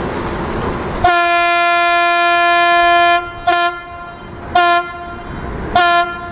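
Ferry's whistle sounding one prolonged blast of about two seconds, then three short blasts: the signal for leaving the dock, then operating astern propulsion as the boat backs out.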